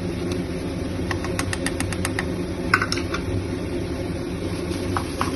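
Steady low motor-like hum under a quick run of sharp metal clicks, then a louder knock and a few scattered clicks: utensils working against a kadai as butter is added to paneer bhurji.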